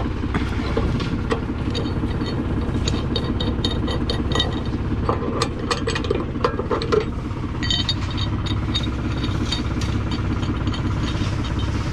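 Case C60 tractor's diesel engine running steadily at idle while the tractor waits to skid logs, with light metallic clinks and rattles over it and a short wavering tone in the middle.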